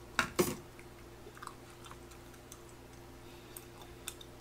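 A man chewing a mouthful of tteokbokki close to the microphone. There are two sharp wet smacks near the start as he takes the bite, then fainter smacks and clicks.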